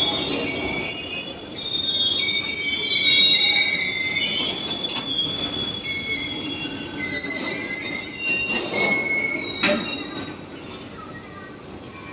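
Freight train of open-top box wagons rolling past, its wheels squealing in several high, shifting tones over the low rumble of the wagons. There are a couple of sharp knocks about nine seconds in, and the sound fades over the last two seconds.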